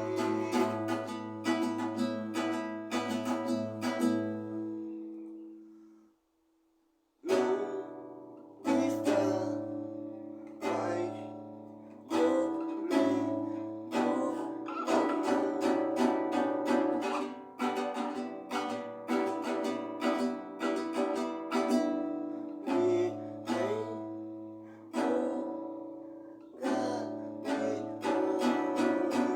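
Acoustic guitar strumming chords in a steady rhythm, each chord ringing and fading, with a pause of about a second roughly six seconds in.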